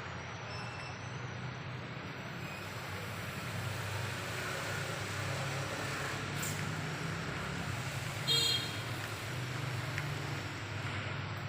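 Steady rain falling, an even hiss, with a brief sharp high sound about eight seconds in.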